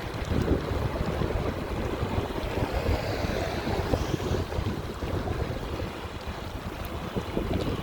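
Wind buffeting the microphone: a rough, fluctuating rumble.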